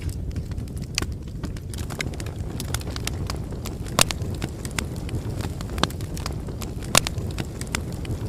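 Bonfire burning: a steady low rumble of flames with scattered sharp crackles and pops. The loudest pops come about four and seven seconds in.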